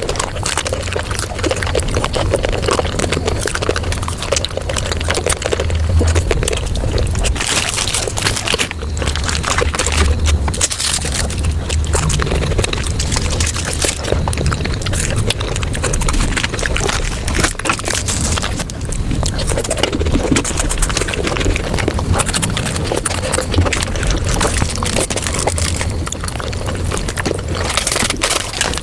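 Mukbang eating sounds of chocolate and ice cream sped up five times: a fast, dense, continuous stream of crunching, chewing and wet mouth clicks.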